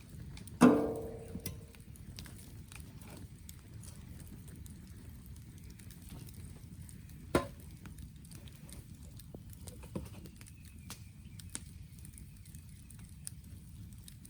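An axe striking firewood twice, about seven seconds apart. The first blow rings briefly with a decaying tone; faint scattered clicks fall between the blows.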